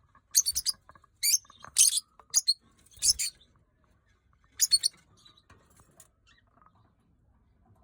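Lutino peach-faced lovebird calling in short bursts of shrill, high-pitched chirps, about six bursts, the last one about five seconds in.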